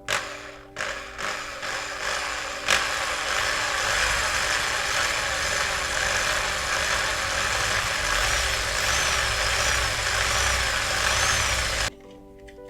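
Small handheld electric power tool running under load. It starts in a few short bursts, then runs without a break for about nine seconds and cuts off suddenly near the end.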